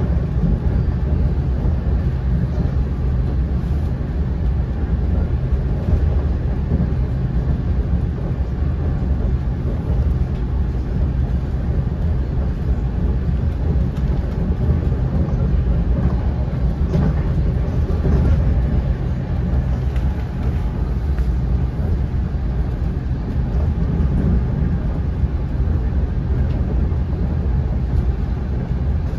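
Steady low rumble of an NJ Transit Arrow III electric multiple-unit rail car heard from inside the passenger cabin as the train runs along the track, with a few faint clicks now and then.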